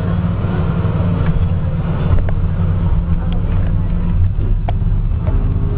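International DT466 inline-six diesel engine of a 2006 IC CE300 bus idling steadily, with a few faint clicks over the hum.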